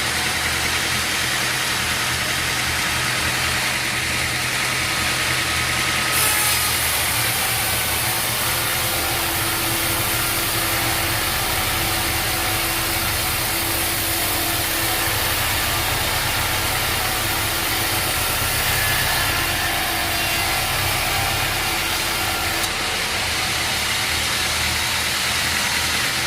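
Machinery engine running steadily, a low hum under heavy hiss. A brighter, hissier layer joins about six seconds in and drops away near the end.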